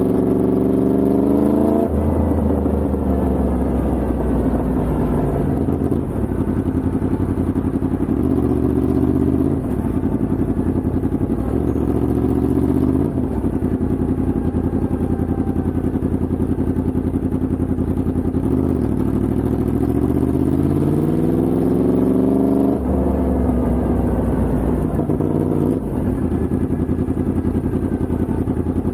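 Yamaha MT-10's crossplane inline-four engine under hard acceleration, its pitch climbing through the revs and dropping back at each upshift. This happens in several runs.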